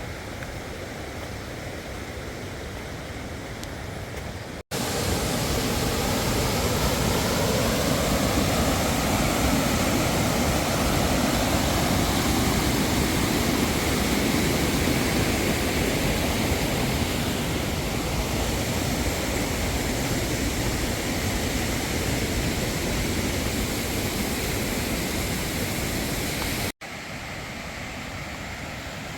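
Steady rush of flowing water. It jumps louder and fuller with a sudden cut about a fifth of the way in, then drops back to a quieter rush with another sudden cut near the end.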